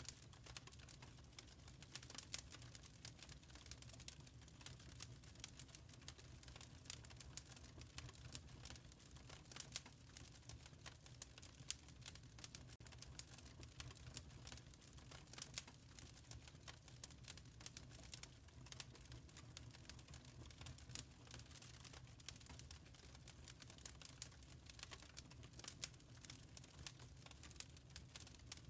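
Faint wood fire crackling in a fireplace: irregular sharp pops and snaps scattered over a soft, steady low rumble of the flames.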